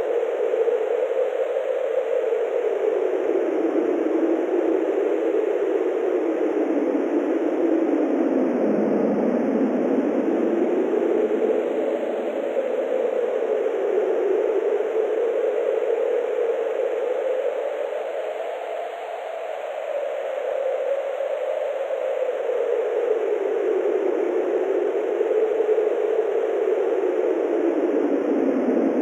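Wind blowing steadily, a continuous rushing noise whose pitch slowly swells up and down every few seconds, easing off briefly about two-thirds of the way through.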